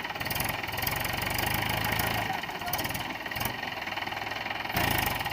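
Mahindra 415 DI tractor's four-cylinder diesel engine running with a steady, knocking diesel beat. It gets briefly louder near the end.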